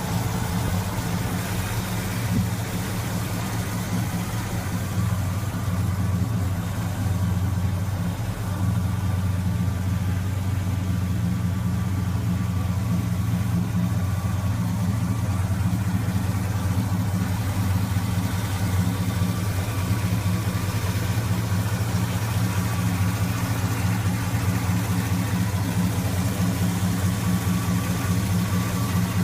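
1975 Chevrolet El Camino SS engine idling steadily, with a slight rise in level about eight seconds in.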